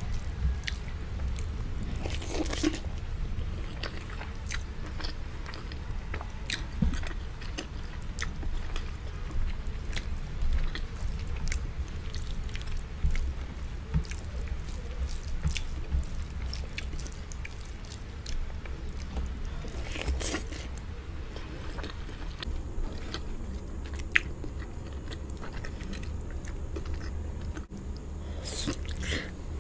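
Close-miked eating by hand: chewing and biting of rice, palava sauce and chicken, with many small wet mouth clicks. A louder bite near the end as a boiled egg is bitten into.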